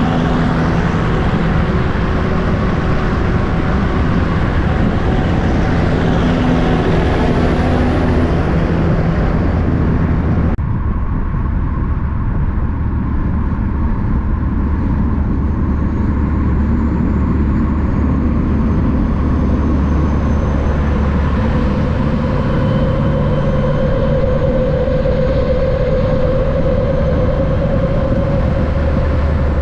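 Big-rig truck diesel engines running steadily, with an abrupt change in the sound about ten seconds in.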